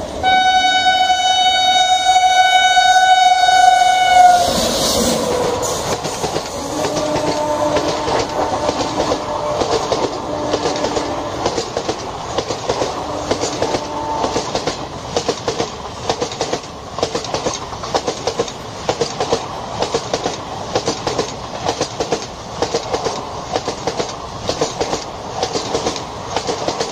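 A WAP7 electric locomotive's horn sounds one long steady blast for about four seconds. The train then runs past, its ICF coaches' wheels clattering over the rail joints in a steady clickety-clack rhythm.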